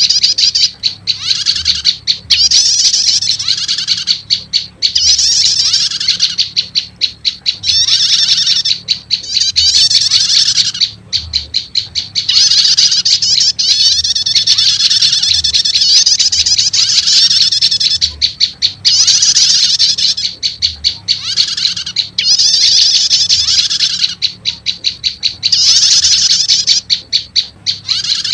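Prenjak lumut lure calls mixed with prenjak calls, played as a loud looped recording. Runs of rapid, sharp ticking notes alternate with dense, high trilling phrases, over and over.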